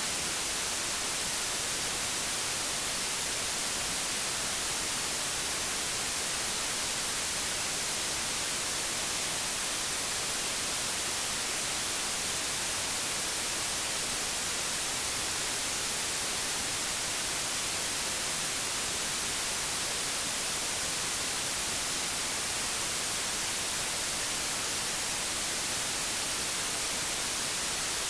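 Old analogue television static: a bright, even hiss that holds steady without a break or change.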